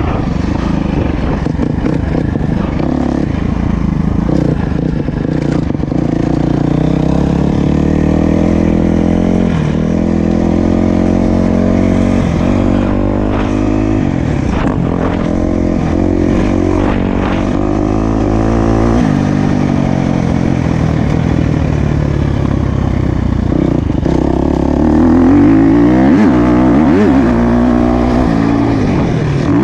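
Motocross bike engine revving hard, its pitch climbing and dropping over and over as it accelerates, shifts and backs off around the track. It is busiest and loudest near the end.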